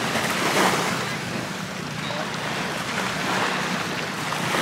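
Surf washing onto a beach, rising and falling in swells, over a steady low hum.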